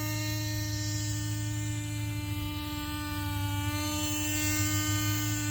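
Lite Machines nitro RC helicopter's small glow engine and rotor running steadily in flight, a steady whine whose pitch sags slightly midway and then recovers. The engine is set rich at stock needle settings.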